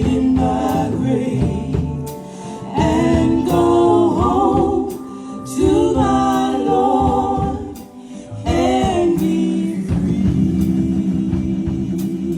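Gospel song: voices singing sustained, gliding notes over instrumental accompaniment.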